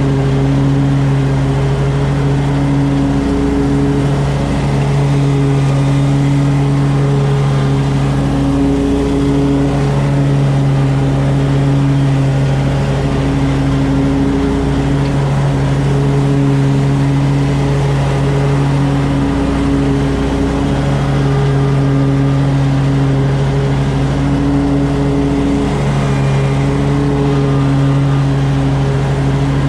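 Lawn mower engine running steadily at high throttle while mowing grass. Its pitch dips slightly every few seconds as the load changes.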